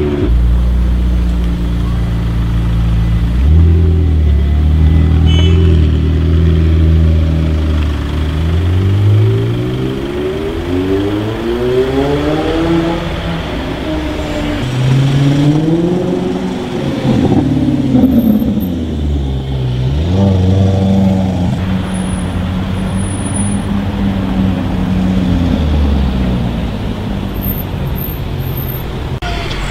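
Supercar engine running steadily, then climbing in pitch and falling back twice as it is revved or accelerated, then settling to a steady note that drops near the end.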